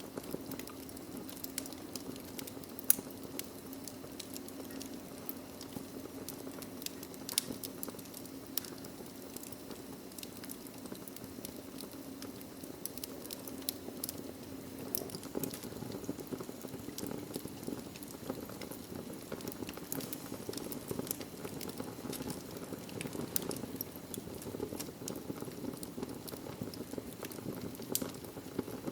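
Log fire in a fireplace crackling: a steady low hiss of burning with many sharp crackles and pops, the loudest pop about three seconds in.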